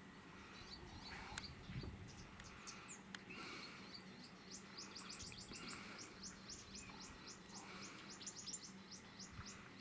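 Faint birdsong: a long, quick series of short high chirps that starts about halfway through, over softer repeated calls from other birds.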